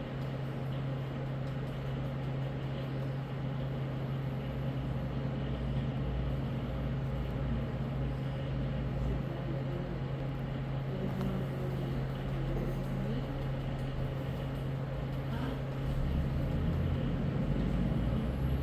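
A steady low mechanical hum, like a motor or engine running, that grows a little louder near the end.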